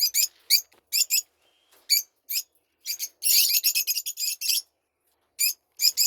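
Young lovebirds chirping: short, high, shrill calls in quick clusters, rising to a dense flurry of overlapping calls a little after three seconds in, then a brief pause before more chirps near the end.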